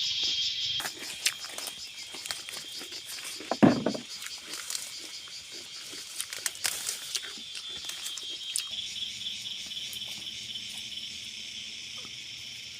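Insects chirring steadily and high-pitched, with a run of rustling, cracking clicks through the first half and one heavy thump about four seconds in.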